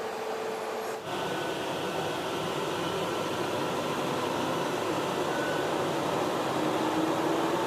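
Steady mechanical hum and hiss of a passenger train standing at a railway platform. The sound changes abruptly about a second in, then runs on evenly.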